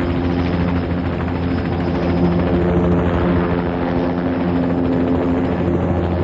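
Helicopter running steadily: a rapid beat of rotor blades over a constant engine hum with several held tones.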